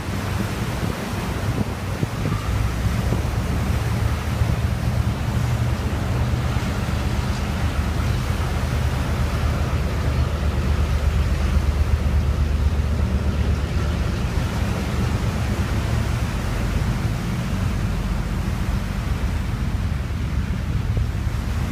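Diesel locomotives hauling a freight train, their engines giving a steady low throb that swells for a few seconds near the middle, under a loud rush of wind on the microphone.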